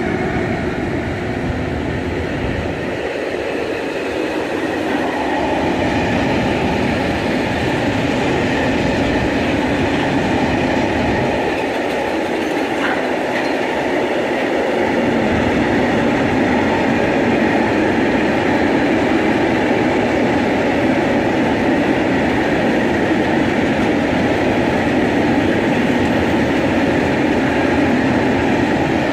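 Freight train rolling past: a steady, loud rumble of wagon wheels on the rails that grows somewhat louder about halfway through.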